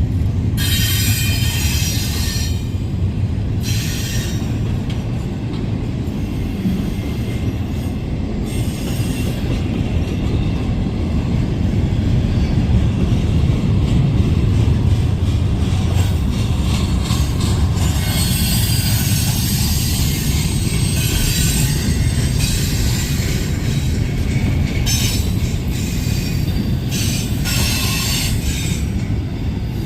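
Train cars rolling past with a steady low rumble, and the wheels squealing on and off, with several bouts of squeal through the pass.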